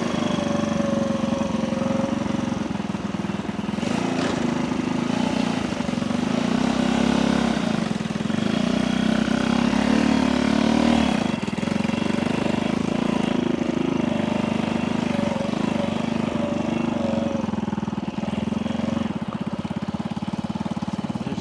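Honda C200's small single-cylinder four-stroke engine idling while its idle speed is adjusted with a screwdriver at the carburettor. The revs rise and fall briefly in the middle, then settle back to a steady idle.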